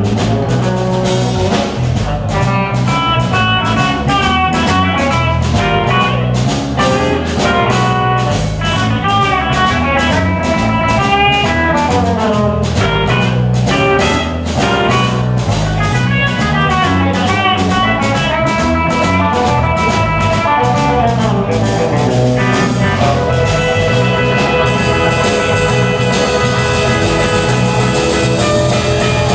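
Live band music with no singing: drums and bass keep a steady beat under a melodic lead solo of quick, bending runs, which gives way to held chords in the last few seconds.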